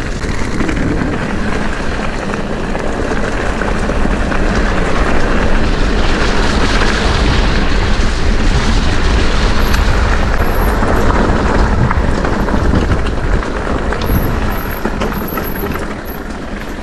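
Wind buffeting a GoPro microphone, with tyre rumble and rattling from an e-mountain bike riding a rough woodland track. The noise is loud and steady, with scattered knocks.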